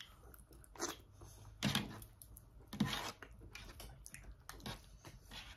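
Faint chewing and mouth sounds of someone eating fufu with okra soup, in a few short bursts.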